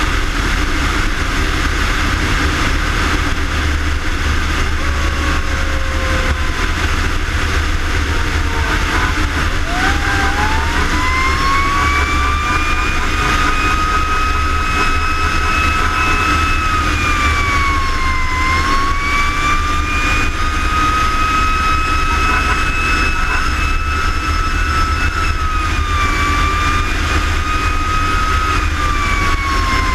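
Fire engine responding: its siren winds up about a third of the way in, holds a high wail with a few brief dips in pitch, and starts winding down near the end, over the steady low rumble of the truck's engine.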